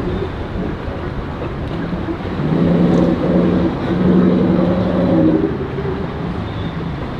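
A boat's engine running loud and deep-toned, described as sounding mean. It swells in level about two and a half seconds in and eases back a few seconds later.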